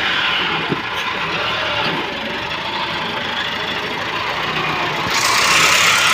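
Tractor's diesel engine running steadily. A louder rushing hiss joins about five seconds in.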